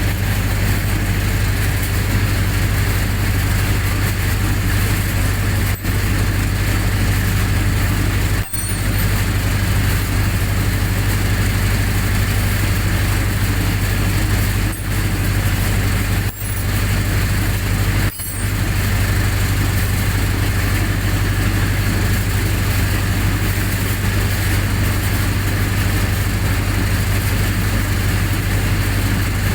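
A generator set's engine running steadily at constant speed, with a strong low hum. The sound cuts out for an instant about five times in the middle stretch.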